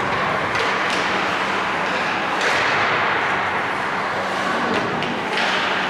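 Ice hockey play heard from the rink: a continuous scraping hiss of skates on ice, with a handful of sharp clacks of sticks and puck, over a steady low hum.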